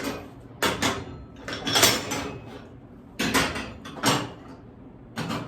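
Handling noises from a new gas range and its parts: a string of about five knocks, scrapes and rustles, the loudest about two seconds in.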